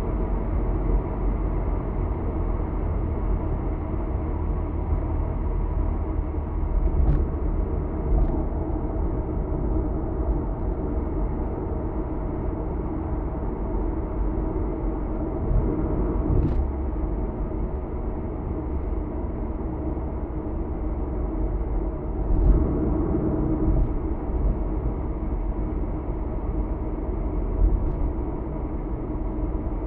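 A car cruising at expressway speed, heard from inside the cabin: a steady low drone of tyre and engine noise, with a few faint ticks.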